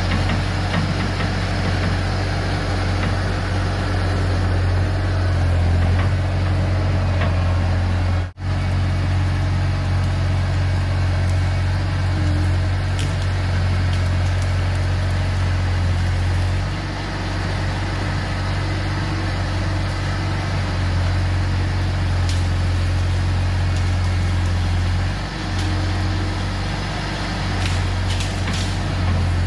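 Bobcat T250 skid-steer's diesel engine running steadily under working load, with a deep, even engine drone. The sound drops out for an instant about eight seconds in, and the engine note eases briefly twice later on.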